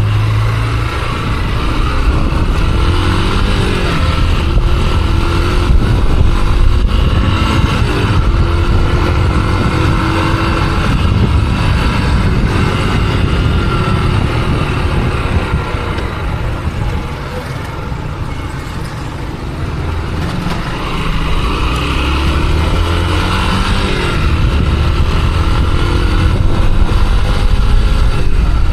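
Motorcycle engine running while riding, with wind buffeting the helmet-mounted microphone; the engine note rises several times as the bike accelerates through the gears, and eases off for a few seconds in the middle.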